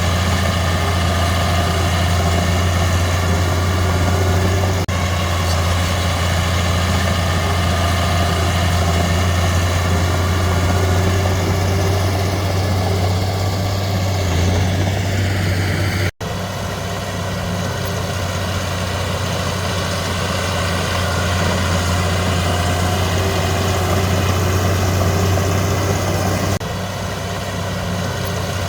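Heavy diesel engine of earthmoving machinery running steadily with a deep drone. It breaks off for an instant just past halfway and drops slightly in level near the end.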